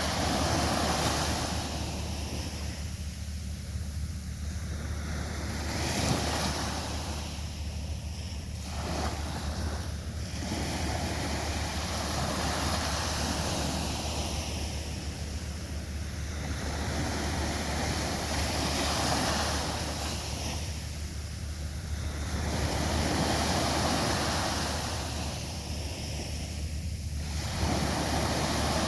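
Sea waves breaking on a beach, the surf surging and ebbing about every four to six seconds, with a steady low wind rumble on the microphone.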